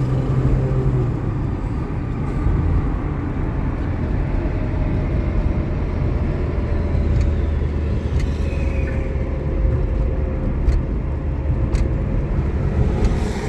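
A car driving, its engine and road noise a steady low rumble, with a faint drawn-out whine through the middle and a few light clicks.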